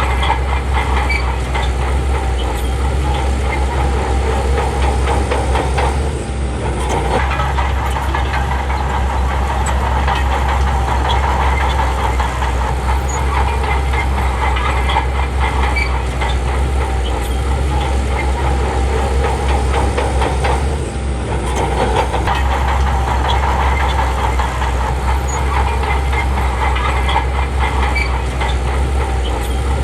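Shantui bulldozer's diesel engine running steadily under load, with a continuous clanking rattle of its steel tracks; the sound eases off briefly twice.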